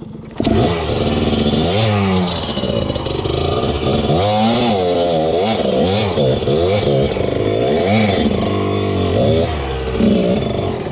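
Enduro dirt bike engine revving up and down over and over as the throttle is worked, its pitch rising and falling about once a second. It comes in suddenly and loudly about half a second in.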